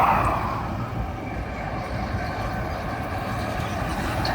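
Steady road and engine noise of a moving car, a little louder at the start and easing off within the first second.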